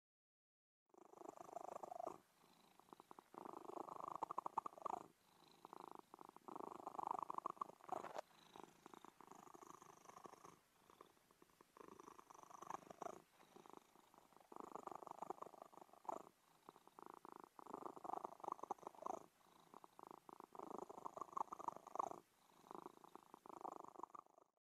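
Domestic cat purring, swelling and fading in turn about every three seconds, starting about a second in.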